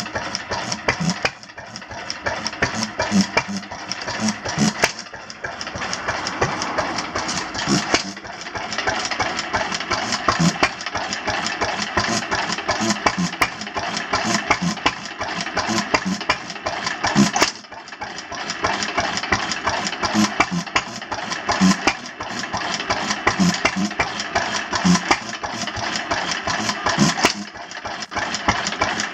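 Old Japanese stationary engine (hatsudoki) running steadily, puffing its exhaust in a fast, even beat with a heavier thud every second or so.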